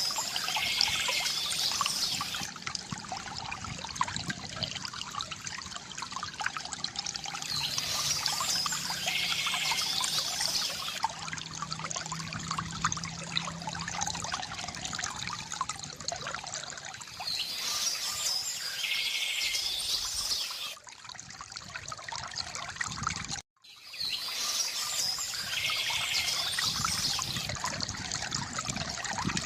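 Water trickling and pouring steadily from a bamboo fountain, with a bird singing the same short chirping phrase four times, about every eight seconds. The sound cuts out completely for a moment about three quarters of the way through.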